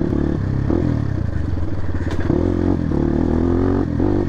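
Dirt bike engine running in low gear, revs rising and falling several times, with some clatter from the bike over rough ground.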